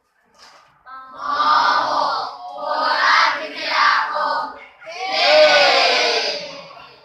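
A group of students shouting together in unison: three loud shouted calls, each about one and a half to two seconds long.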